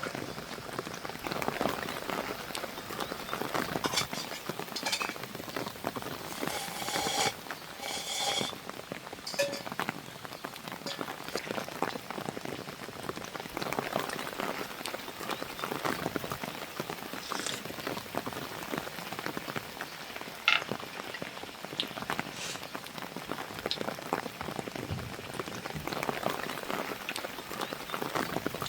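Rain falling, many drops pattering steadily on a surface, with a few brief clinks and knocks in the middle and one sharp click about two-thirds of the way through.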